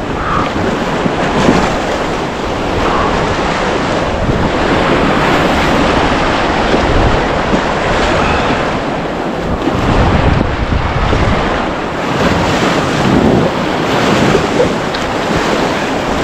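Loud rushing whitewater of a river in high flow, swelling and easing, with wind buffeting the microphone.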